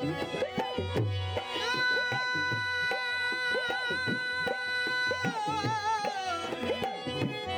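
Live Rajasthani Manganiyar folk music: a hand drum keeps a quick steady rhythm under sweeping, bending tones. A long note with vibrato is held from about two seconds in, then slides down and fades shortly before the end.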